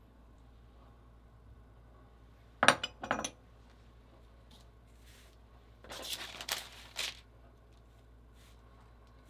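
Kitchenware clinking: two sharp clinks a little under three seconds in, then about a second of clattering and scraping just past the middle.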